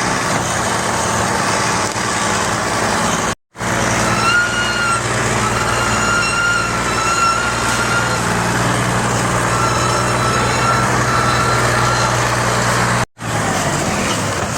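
Tractor diesel engine running hard and steady, with a high whine over it that comes and goes in the middle. The sound cuts out abruptly twice.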